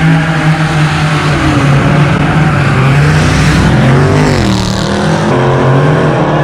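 Street-racing cars' engines running hard at high revs. Tire noise comes under the engines, and about four seconds in a pitch falls as one car sweeps past.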